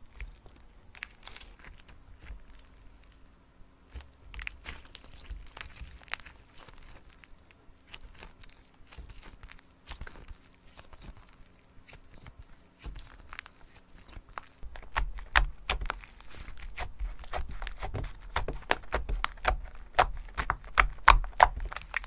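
Slime being squeezed and worked by hand, giving irregular crackling and popping clicks that grow denser and louder about two-thirds of the way in.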